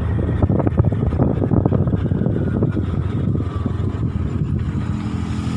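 Low rumble of a running vehicle engine, mixed with wind noise on the microphone.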